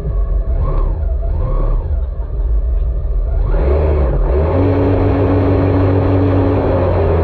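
Jet ski engine running, then opening up about three and a half seconds in to a louder, steady run.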